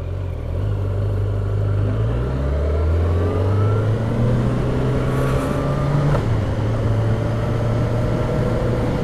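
Motorcycle engine accelerating, its pitch climbing for several seconds, then dropping sharply about six seconds in as it shifts up a gear, and running steady after that.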